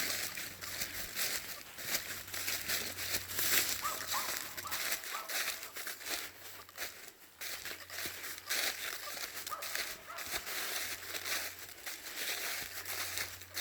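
Footsteps crunching and crackling through dry leaves and twigs, irregular and unhurried. They come from a person walking down a steep forest path under a heavy load of firewood on an A-frame carrier.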